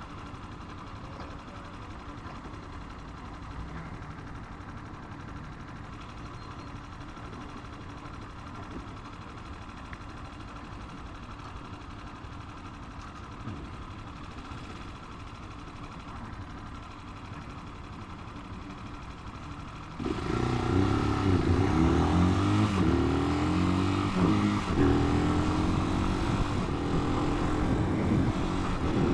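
Italika 250 motorcycle engine running while riding, low and fairly steady at first. About two-thirds of the way in it suddenly becomes much louder, its pitch rising and falling repeatedly as the bike accelerates and changes speed.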